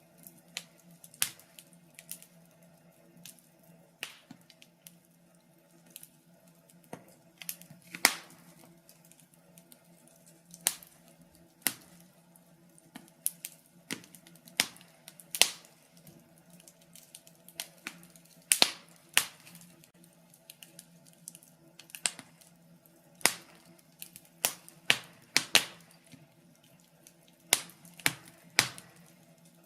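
Wood fire crackling in a fireplace: sharp, irregular pops and snaps, some in quick clusters, over a faint steady hum.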